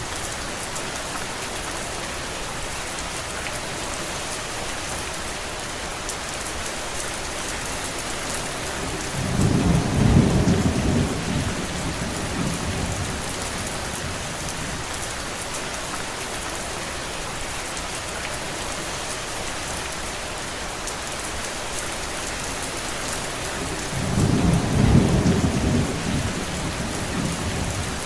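Steady heavy rain, with two low rumbles of thunder lasting a few seconds each: one about ten seconds in and another near the end.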